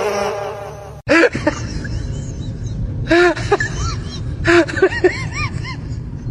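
An animal's short calls, each rising and falling in pitch, coming in several groups. They follow a held, wavering cry that cuts off suddenly about a second in.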